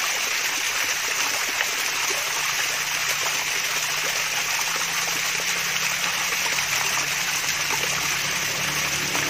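Water splashing and trickling steadily down a mini waterfall, a constant babbling rush.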